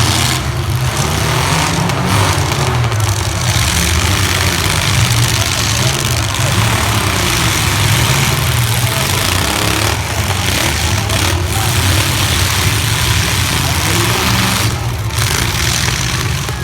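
Compact pickup truck engines running and revving in a demolition derby heat: a loud, continuous engine din with a wavering low pitch.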